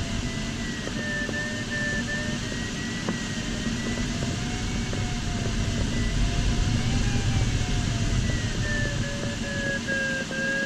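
Steady airflow noise inside an LS4 glider's cockpit, with a single electronic tone, typical of an audio variometer, wandering slowly up and down in pitch and sinking lower near the end.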